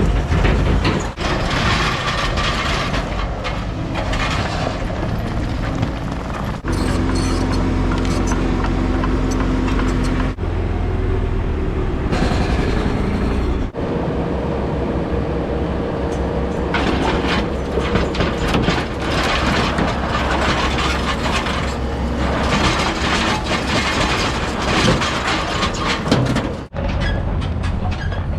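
Heavy diesel construction equipment working, its engine running steadily. The sound breaks off and changes abruptly several times.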